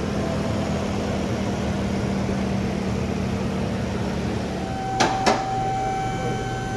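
Mercedes S600's M120 V12 idling with a steady hum. About two-thirds of the way in, a higher steady whine from the two-post lift's motor takes over as the car is raised, with two sharp clicks a third of a second apart.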